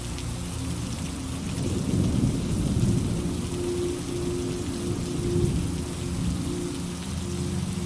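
Steady rain falling, with a low rolling rumble of thunder that swells about two seconds in and fades, then swells briefly again around five seconds.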